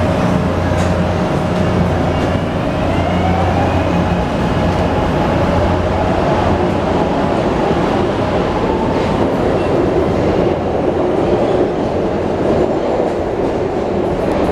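SEPTA Market-Frankford Line rapid-transit train running on its rails: a loud, steady rumble of wheels and cars, with a low hum that fades after the first few seconds and a whine that glides in pitch a few seconds in.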